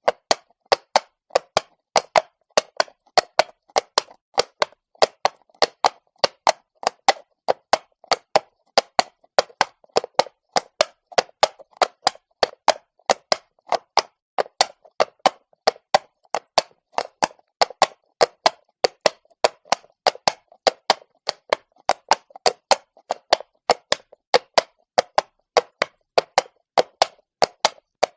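A horse's hooves walking on cobblestone: sharp clops in a steady, even walking rhythm.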